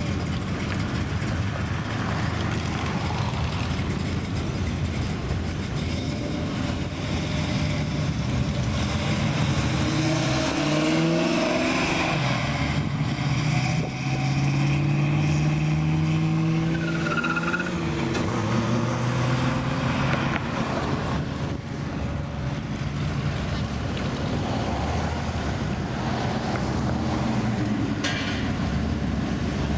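Car engines running as cars drive slowly past one after another. Between about ten and eighteen seconds in, one engine's pitch rises and falls as it revs and pulls away.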